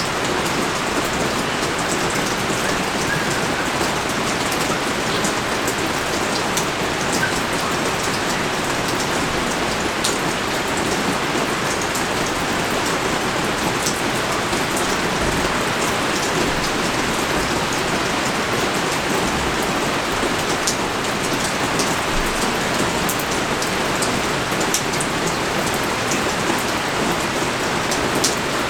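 Heavy rain pouring down steadily: a dense, even hiss with scattered ticks of individual drops.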